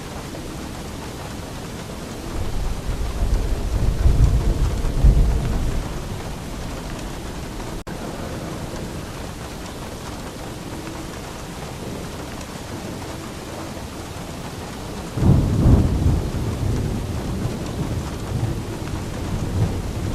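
Steady heavy rain with two rolls of thunder: a low rumble that builds about two seconds in and fades by six, and a second that breaks suddenly about fifteen seconds in and rumbles away slowly.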